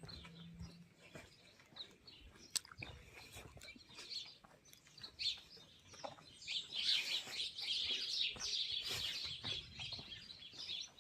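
Small birds chirping, a few scattered calls at first that thicken into a dense, busy chorus of chirps about halfway through.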